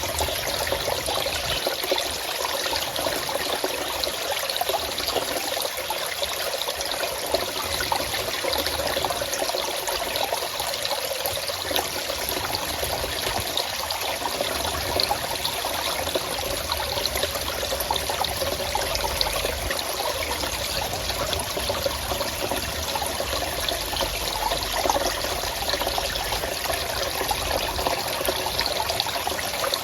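Running water in a forest stream, a steady, even trickling and splashing flow with no breaks.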